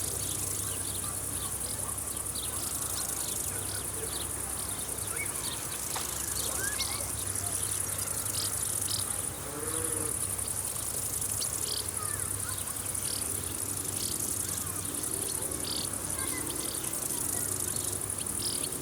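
Field insects such as crickets chirring, a steady high-pitched trill, with many short chirps scattered over it.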